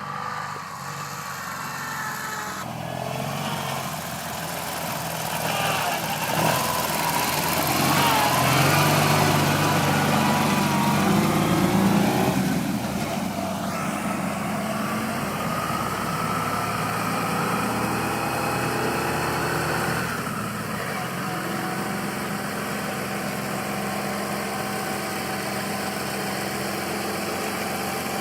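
Engine of a modified Ural motorcycle running. It grows louder and busier for several seconds starting about a quarter of the way in, then settles to a steady run.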